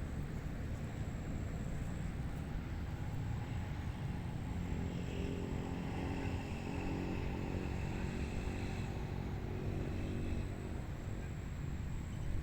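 Steady wind rumbling across the microphone, with a distant engine running faintly underneath from about four seconds in until about eleven seconds in.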